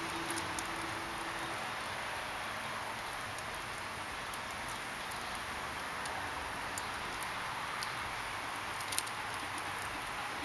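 Fire crackling: a steady hiss with scattered sharp pops and snaps, the loudest one about nine seconds in.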